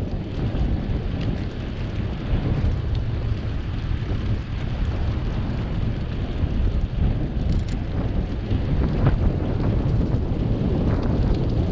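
Wind buffeting the microphone of a camera riding on a moving bicycle: a steady low rumble, with a few faint clicks.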